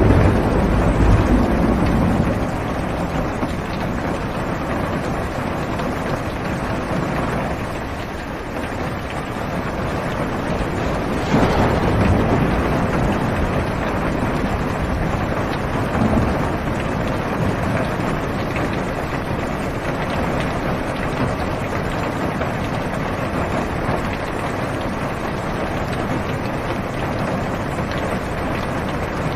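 Heavy rain falling steadily on a car's roof and windows, heard from inside the car, with low rumbles of thunder swelling near the start and again about twelve seconds in.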